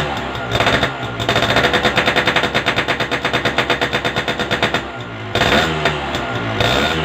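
Motorcycle with an Altech C20 aftermarket exhaust held at high revs, its note breaking into a fast, even stutter of about six pulses a second for several seconds. It then drops back to a lower, steadier running note near the end.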